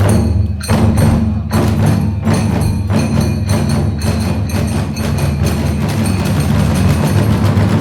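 Kagura hayashi ensemble playing: drums and tebyoshi hand cymbals beating a brisk, steady rhythm, the cymbals ringing over the drums.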